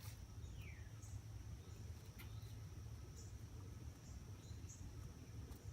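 Faint outdoor ambience: a low rumble of wind on the microphone under a steady high whine, with a few short bird chirps that drop in pitch and a few light clicks.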